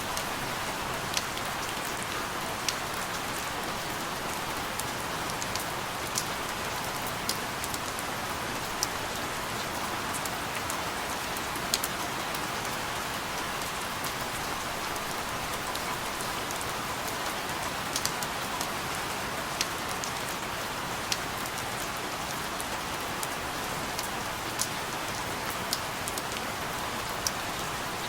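Steady rain falling, an even hiss with sharper single drops ticking loudly on a surface every second or two.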